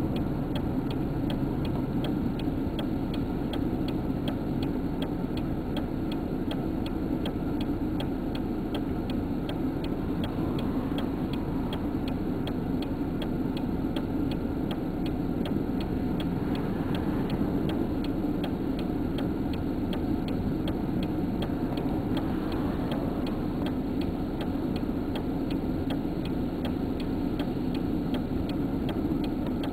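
Steady low rumble of a vehicle as heard from inside the cab, with a fast, even ticking throughout.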